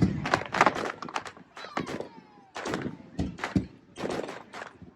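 Fireworks going off in a rapid, irregular series of bangs and cracks, with a brief whistle falling in pitch about two seconds in.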